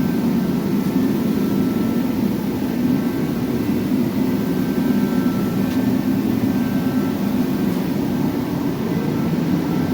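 Steady low drone of a running machine, even throughout, with faint high steady tones above it.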